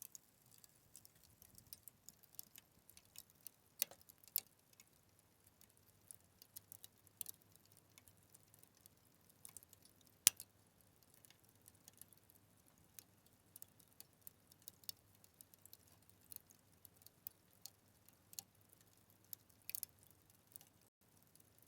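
Wood fire crackling: quiet, irregular sharp snaps and pops, with one louder pop about ten seconds in.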